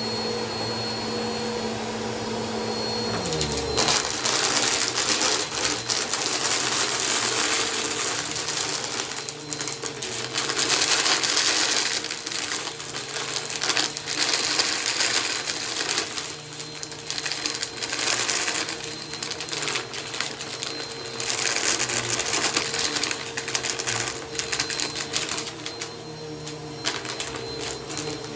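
Bissell vacuum cleaner running on a shag rug: a steady motor hum whose pitch drops about three seconds in as it starts working the rug. From then on, crunchy debris rattles and crackles up through the vacuum, swelling and easing as it is pushed back and forth.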